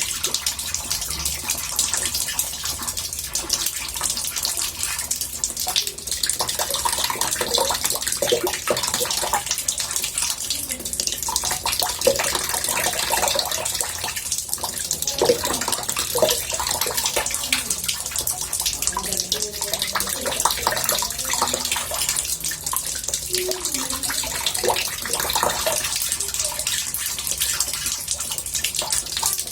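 Tap water running into a bathtub: a steady splashing hiss with scattered small bubbling sounds.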